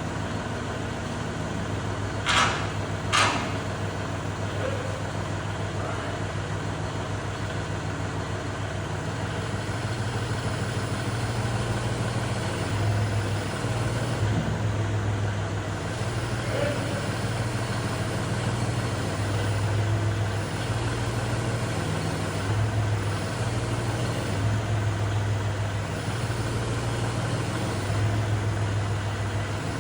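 Kubota tractor's diesel engine running at a steady idle, its hum swelling and easing now and then. Two sharp metallic knocks come close together a couple of seconds in.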